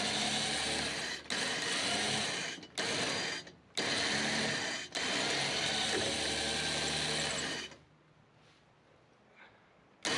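Winch motor pulling a stuck, long-stored tractor onto a trailer. It runs in bursts, stopping and restarting several times, then cuts off about three quarters of the way through.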